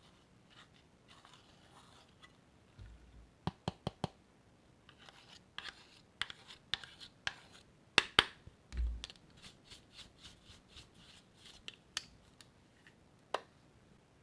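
Hands working makeup into slime: scattered sharp clicks, crackles and short scratching sounds, with the loudest pair of clicks about eight seconds in and a couple of soft thumps.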